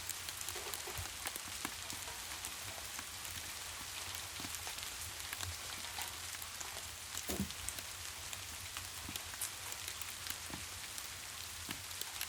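Steady rain with a wood fire crackling, scattered sharp snaps over the even hiss of the rain. One louder pop comes a little past halfway.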